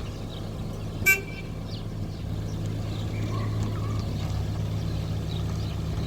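A car's engine running steadily, with one short toot of its horn about a second in.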